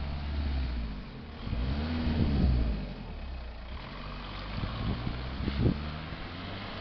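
Silver VW Golf Mk4 with a BMC performance air filter in its airbox, driving past and away. Its engine note rises and then falls again about two seconds in.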